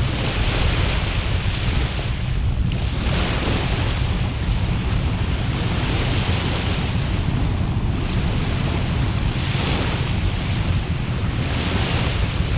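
Wind rumbling on the microphone beside a bonfire in a Coleman fire disk, with a hiss that swells and fades every two to three seconds and a steady high-pitched tone throughout.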